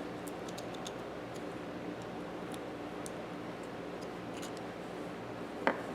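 Faint, irregular metallic ticks and clicks from handling a socket ratchet and its dust cover, with one sharper knock near the end, over a steady low hum.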